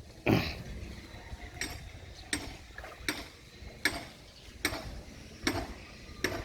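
Regular sharp mechanical clicks, about one every three-quarters of a second, eight in all.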